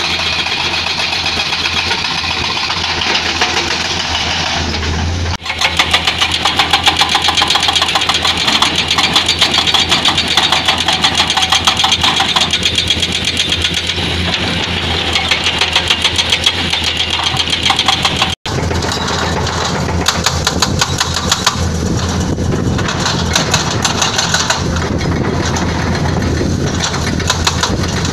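Excavator-mounted hydraulic breaker hammering rock in a fast, steady rattle of blows, over the running diesel engine of the excavator. The sound breaks off for an instant twice, about five and eighteen seconds in, then carries on.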